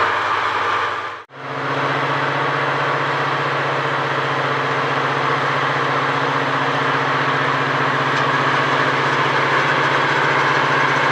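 Diesel engine idling steadily at an even, low pitch, starting after a brief dropout about a second in; a different vehicle sound is heard before the dropout.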